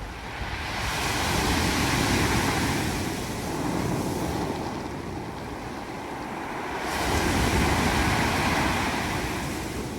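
Sea waves washing up a pebble beach, with pebbles rolling in the surf; two waves swell up, about a second in and again about seven seconds in.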